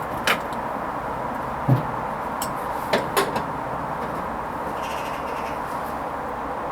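Hoover Vision HVP16 washing machine running a Silks 30 wash: steady running noise with a faint hum, broken by a few short clicks and one low thump a little under two seconds in.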